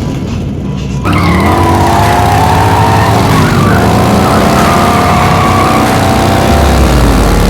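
Race car engine sound effects: several engines revving, rising and falling in pitch, with tyre squeal, cutting in abruptly about a second in.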